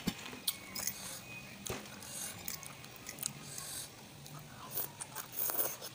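Close mouth sounds of a person chewing spicy instant noodles: soft, wet smacking with scattered small clicks.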